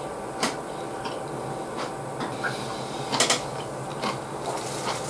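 A person chewing a mouthful of crisp stir-fried greens close to the microphone: a few scattered crunchy clicks over a steady low hum.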